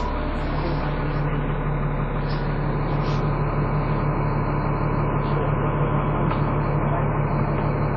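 Dennis Trident 2 double-decker bus engine running steadily, with a constant low hum.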